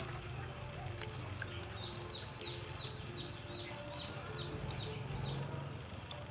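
A bird chirping: a run of short, high, falling chirps, about three a second, starting about two seconds in and stopping about five seconds in, over a low steady hum.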